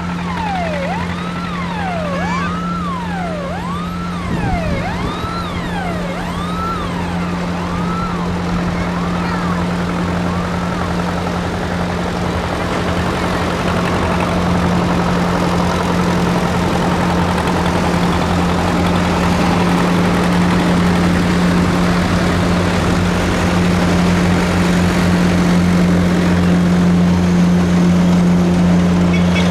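Tractor engine running steadily, slowly growing louder. Over the first ten seconds a siren wails over it in quick repeated rise-and-fall sweeps, under a second each, fading out.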